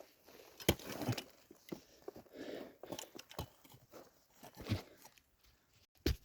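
Irregular scuffs, knocks and crunching of someone climbing up a rocky shaft, with shoes and hands scraping on rock and loose stones.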